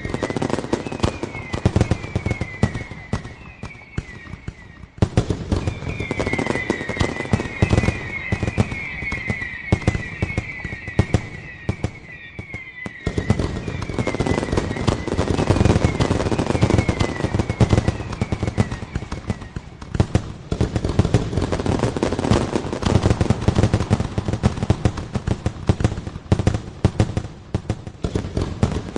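Fireworks going off in a dense barrage of bangs and crackle, with a long run of short falling whistles through the first two-thirds.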